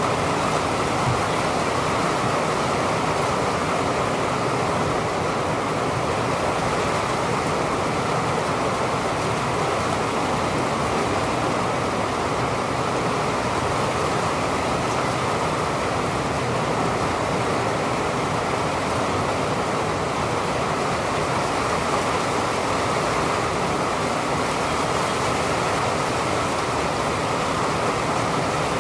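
Steady rain, an even rushing hiss that holds the same level throughout with no thunderclaps.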